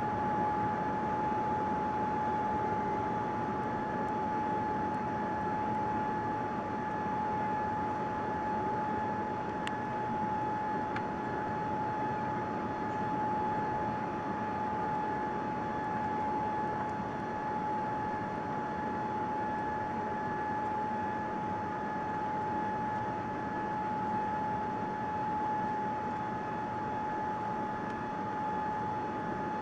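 Steady Boeing 787-9 airliner cabin noise in flight: an even rush of air and engine noise with a constant high-pitched hum running through it.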